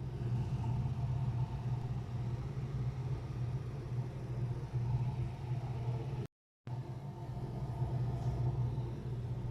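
A steady low mechanical hum, cut off briefly about six seconds in.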